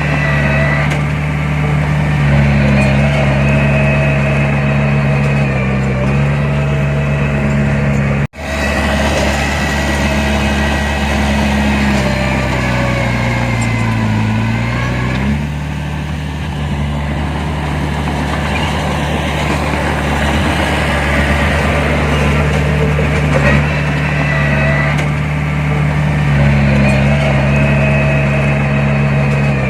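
Heavy diesel engine of earthmoving machinery running steadily. Its pitch sags and then recovers a little past the middle, as under load. The sound cuts out for an instant about eight seconds in.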